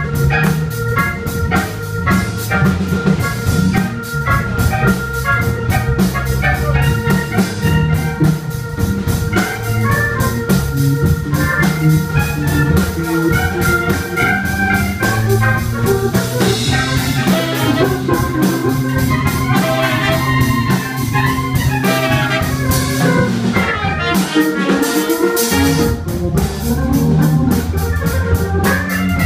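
Live jazz-funk band with a Hammond organ to the fore over a drum kit. The first half has long held notes; from about halfway the playing turns to busier, quicker runs.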